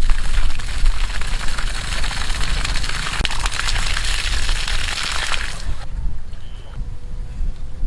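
Water gushing and splashing from the outlet of a homemade engine-less water pump, cutting off suddenly about six seconds in and leaving a low rumble.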